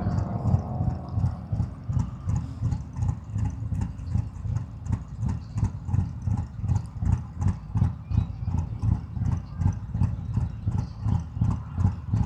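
Harley-Davidson Milwaukee-Eight V-twin idling at a stop, a steady lumpy beat repeating several times a second.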